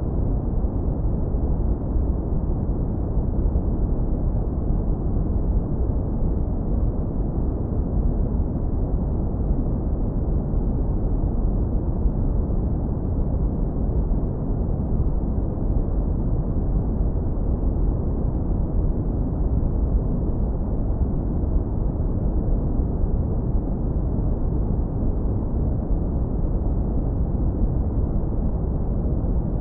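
Steady, deep brown noise, low-passed hard so that only a warm low rumble remains. It holds an even level throughout, with no change.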